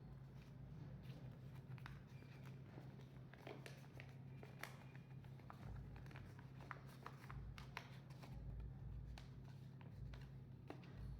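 Faint handling of paper: scattered small crinkles and taps as paper is folded and pressed, over a steady low hum.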